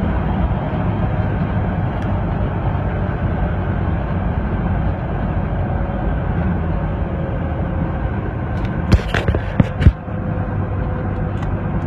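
Cabin sound of a supercharged Toyota V8 truck driving: steady engine and road noise with a faint constant whine. A few loud sharp clicks or knocks come about nine seconds in.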